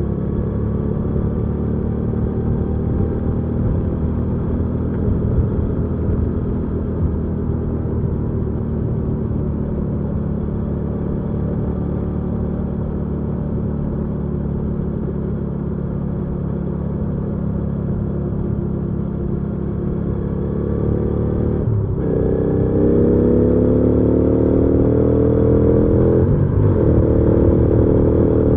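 Hyosung GV300S's V-twin engine running steadily at cruise on the road. Near the end the rider shifts gear and accelerates twice, the engine note climbing after each brief break.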